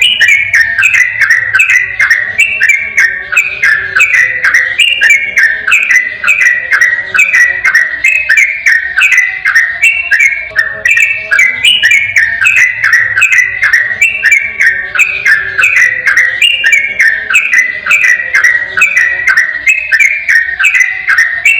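Yellow-vented bulbul (trucukan) singing its rapid 'ropel' song: an unbroken run of quick, clear whistled phrases, about three a second, each stepping down in pitch.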